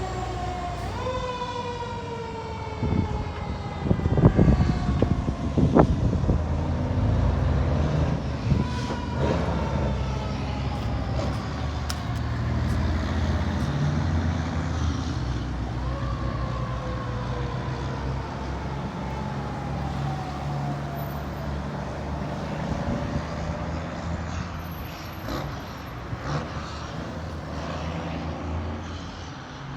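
Fire truck siren sounding slow falling wails over the low rumble of the truck's engine, a new long wail starting about halfway through. A few loud knocks come about four to six seconds in.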